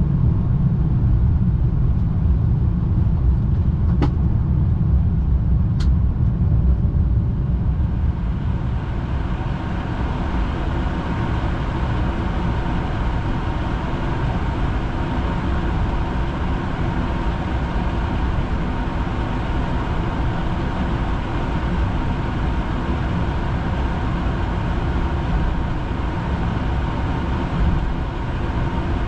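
Flight-deck noise of a Boeing 787-9 on the ground just after landing: a steady low rumble, with two light clicks about four and six seconds in. From about eight seconds in, a broader hiss builds and then holds.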